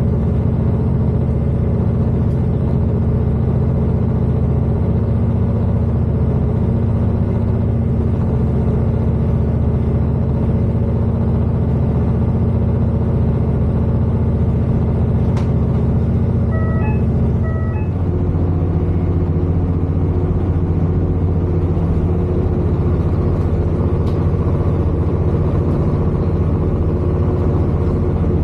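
Class 221 Super Voyager diesel train's underfloor Cummins diesel engine running steadily as a loud low drone, heard from inside the carriage. About eighteen seconds in the drone shifts to a different note as the engine's power setting changes. Just before that a short two-note electronic chime sounds twice.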